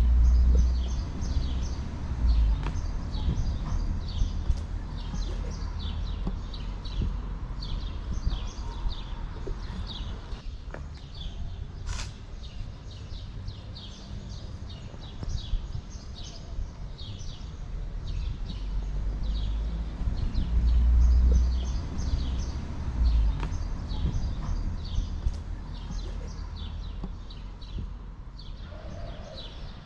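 Birds chirping over and over in quick short notes, under a low rumbling noise that swells near the start and again about twenty seconds in. A single sharp click comes about twelve seconds in.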